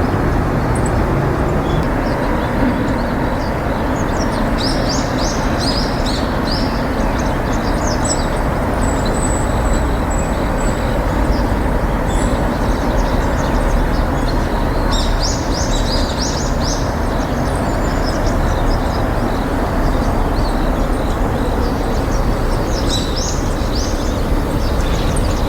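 Steady low outdoor rumble, like distant traffic, with birds chirping over it in three bursts of quick high notes and one thin high whistled note.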